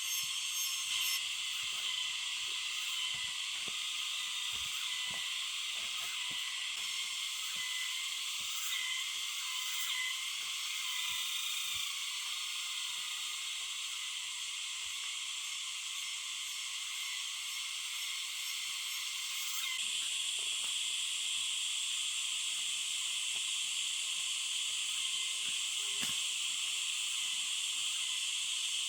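Steady, shrill chorus of forest insects such as cicadas and crickets, with faint scattered knocks and rustles underneath.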